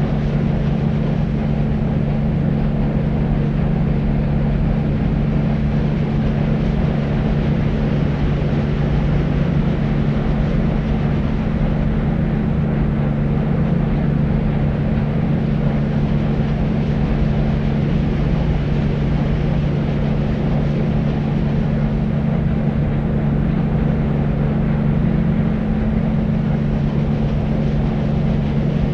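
Deep white noise for sleep: a steady, unchanging rush weighted toward the low end, with a steady low hum underneath and little hiss at the top.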